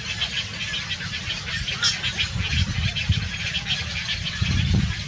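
Baby birds cheeping in a rapid, continuous stream of short high calls, over a low rumble.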